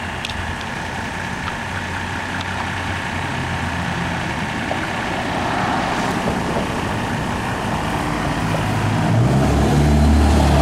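1987 Mercedes-Benz 300D's turbo diesel engine idling through its original Mercedes muffler and silencer, running on straight vegetable oil; the exhaust note grows louder and deeper near the end.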